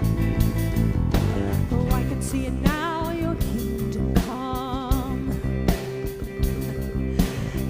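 Worship band playing live, with guitar, bass and drums under a voice singing long held notes with vibrato.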